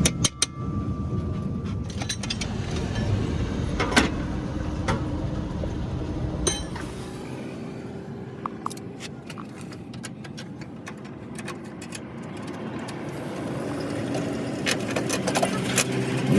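Scattered sharp metallic clinks and knocks of tools on metal over a steady low vehicle rumble, which fades about halfway through and builds again near the end.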